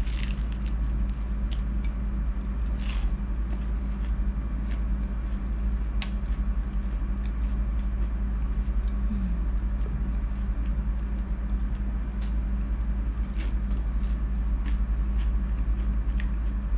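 Close-up chewing of spicy battered squid: scattered soft mouth clicks and smacks over a steady low hum.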